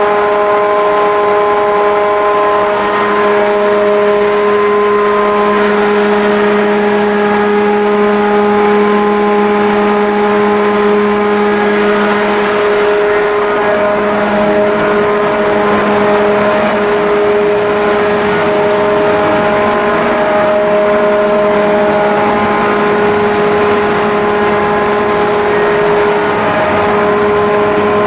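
Ship's diesel engine running steadily at constant speed: a loud, even drone with a steady hum.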